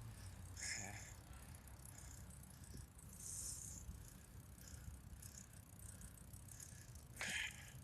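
Bicycle rolling along: a low steady rumble with short rattles now and then, about a second in, around three seconds in and near the end.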